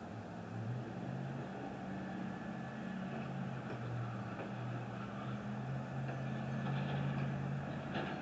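A motor vehicle's engine humming steadily at a low pitch, slowly getting louder and then dropping off near the end, with a short click just before it stops.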